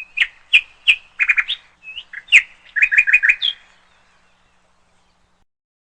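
Canary chirping: a run of short, sharp call notes, some in quick clusters of three or four, stopping about three and a half seconds in.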